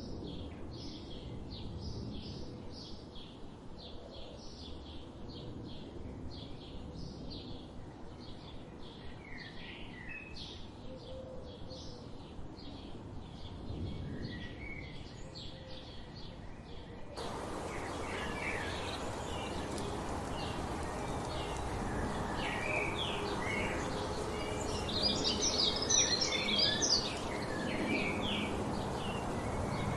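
Wild birds singing and chirping. For the first half a fast run of short, repeated high chips, then an abrupt change to a noisier background with a mix of varied bird chirps, busiest a few seconds before the end.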